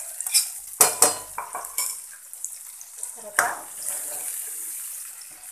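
Ground onion-tomato paste sizzling as it goes into hot oil in a metal kadhai, while a spoon scrapes it out of a steel bowl and stirs, knocking against the pan. There are sharp knocks about a second in and again past the middle, and after that a steadier sizzle.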